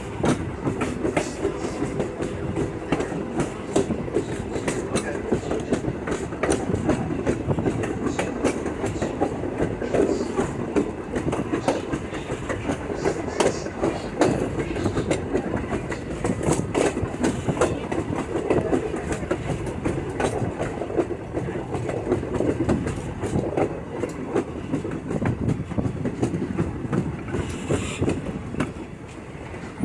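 Passenger railroad car rolling along the track, heard from on board: a steady rumble with rattling and irregular clicks of the wheels over the rails.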